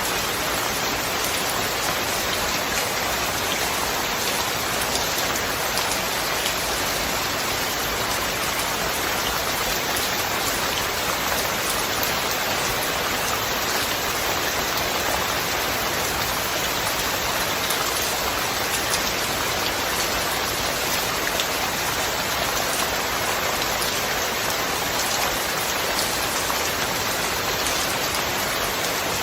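Steady rain falling, an even hiss with scattered fine drop ticks and no thunder.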